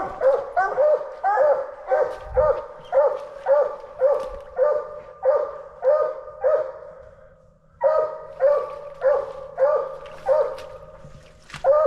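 Coonhound barking treed at a tree, a steady run of short, evenly spaced barks at about two a second, with a brief pause about seven seconds in.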